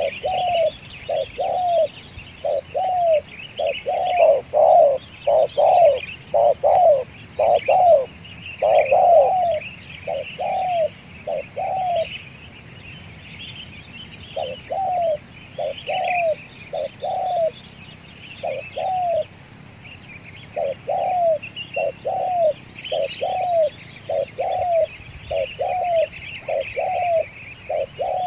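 Spotted dove cooing: a long run of short coos, each rising then falling, two to three a second, with a pause of about two seconds midway. A steady high-pitched hum and small-bird chirps run underneath.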